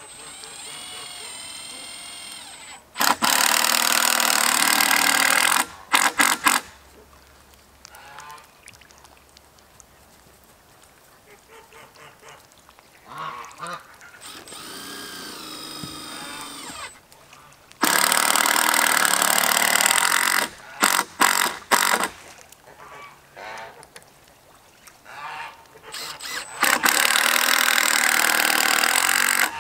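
Power drill driving screws into wood framing in three long runs, each followed by a few short bursts. Geese honk in between.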